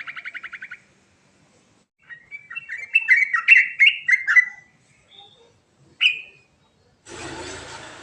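Yellow-vented bulbul (trucuk) singing. A fast, even trill ends within the first second, then comes a run of quick bubbly warbled phrases and a single short note. A harsh, noisy burst starts near the end.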